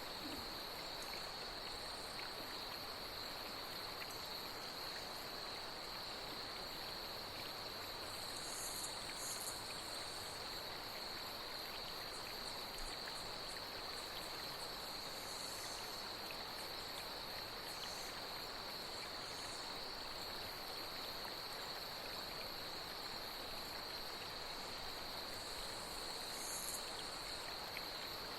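Night insects trilling steadily at a high, constant pitch over the even rush of flowing water, with short higher insect calls breaking in now and then.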